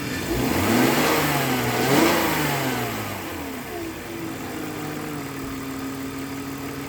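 BMW M54B25 2.5-litre straight-six engine revved once from idle, rising about half a second in and falling back to a steady idle by about three and a half seconds. The owner finds it runs a bit noisy and does not know why.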